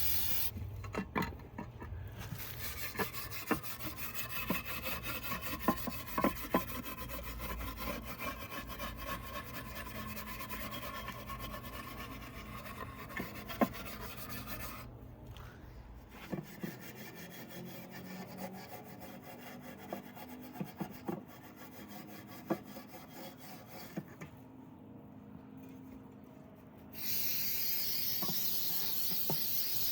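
Fast, continuous scrubbing and rubbing by hand on an engine valve cover being cleaned with brake cleaner. Near the end comes a steady hiss of aerosol brake cleaner spraying.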